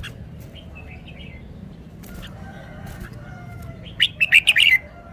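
Red-whiskered bulbul singing: a few soft chirps, then about four seconds in a loud quick phrase of sharp, bright notes, over a steady low background hum.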